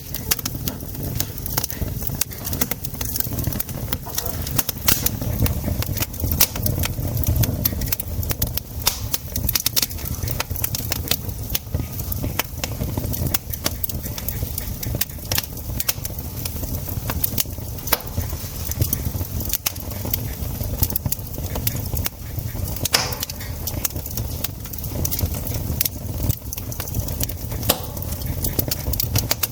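Wood campfire crackling, a dense, irregular run of sharp snaps and pops over a steady low rumble.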